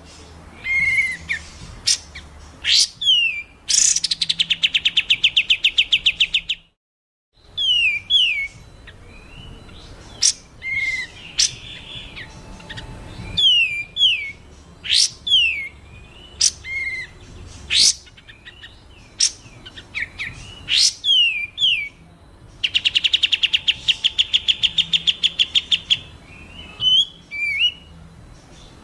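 Recorded songbird calls on a bird-training track: rapid trills of quickly repeated notes, around 4 and 23 seconds in, alternating with sharp, steeply rising whistled notes and short down-slurred chirps. A brief gap of complete silence falls about seven seconds in.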